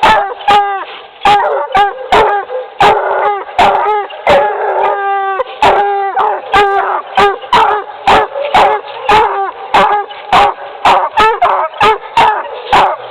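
Two young Bluetick Coonhound pups barking treed: a steady, loud run of overlapping chop barks, about two to three a second, with a longer drawn-out bawl about five seconds in.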